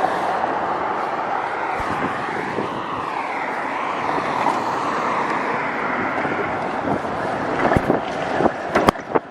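Steady rush of wind over the microphone while riding an e-bike, with road and traffic noise, a faint passing pitch sweep about two to three seconds in, and a few sharp knocks near the end.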